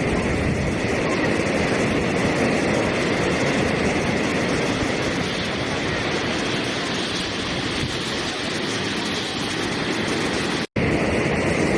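Steady rushing water, an even unbroken wash of noise, cut by a brief total dropout about a second before the end.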